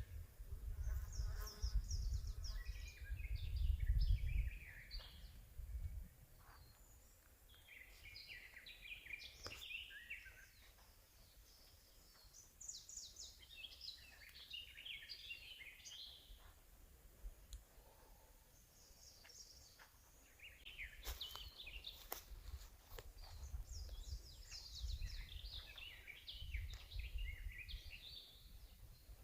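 Songbirds singing in a forest: short phrases of quick chirps and trills repeated every few seconds. A low rumble runs under the first few seconds, then fades, and comes back in the last third.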